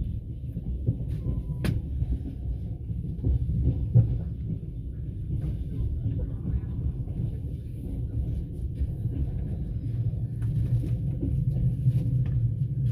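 Passenger train running along the track: a steady low rumble with a few sharp knocks, the loudest about four seconds in.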